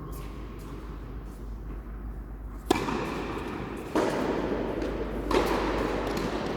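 Three sharp tennis-ball strikes about 1.3 s apart, as in a rally, each followed by a lingering echo.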